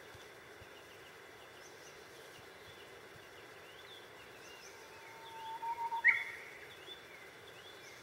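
Outdoor ambience of steady background hiss with faint small-bird chirps throughout; about five seconds in a louder bird call builds in a few quick notes and peaks in one sharp, higher note just after six seconds.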